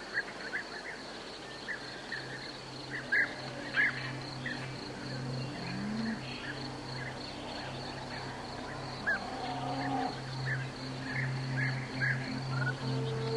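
Animal calls, mostly short bird chirps scattered irregularly, over a steady thin high tone and a low steady hum that begins to pulse about halfway through.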